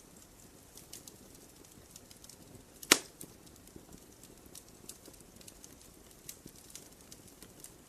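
Wood campfire crackling with scattered small snaps and one loud sharp pop about three seconds in.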